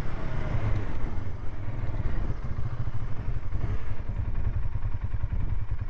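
Polaris ATV engine running steadily as the quad rides along, a low, even engine drone.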